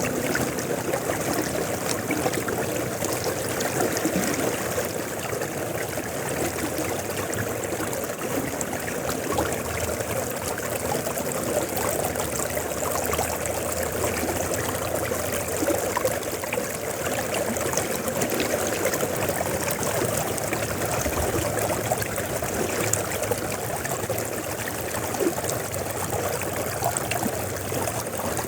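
River water flowing steadily: an even, continuous sound of moving water with no change over the whole stretch.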